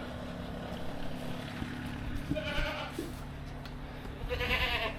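Goats bleating: two drawn-out, wavering bleats, one a little past the middle and one near the end, over a steady low hum.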